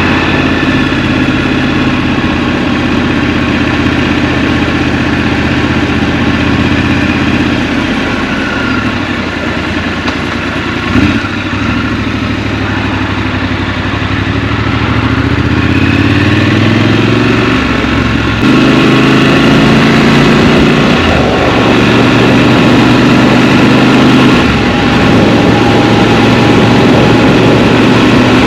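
Scrambler motorcycle engine heard from the rider's seat. It runs at a steady low speed, then rises and falls in pitch through the middle as the bike accelerates, with a short knock about eleven seconds in. It gets louder for the last third.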